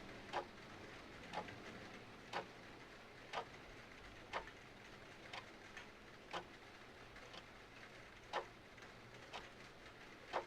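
Clock ticking, a sharp tick about once a second with a few fainter ticks between, over a faint steady hiss of rain.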